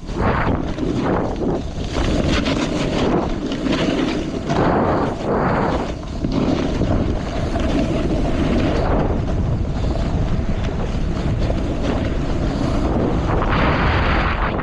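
Wind buffeting a GoPro's microphone while snowboarding downhill at speed, a heavy steady rumble, with the board's edges scraping over the snow in repeated swells of hiss as it turns.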